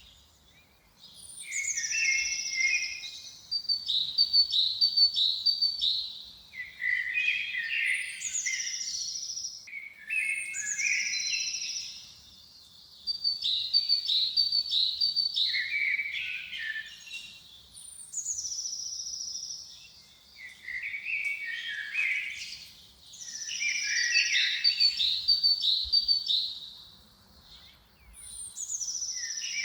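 A songbird singing a long run of complex phrases with short pauses between them. Each phrase opens on a high falling note and runs into fast twittering trills.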